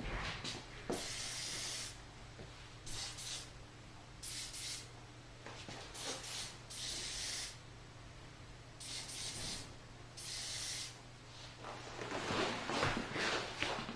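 Aerosol hairspray spraying in about seven short hissing bursts a second or two apart, then rustling and crackling of hair being handled near the end.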